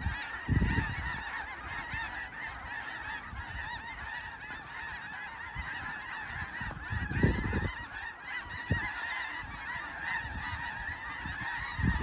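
A large flock of snow geese calling, a dense chorus of many overlapping high honks that never lets up. Two low thumps break in, about half a second in and more loudly around seven seconds in.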